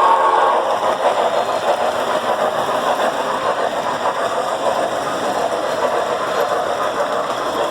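Model train running steadily along the layout track, a continuous whirring rumble of its electric motor and wheels on the rails.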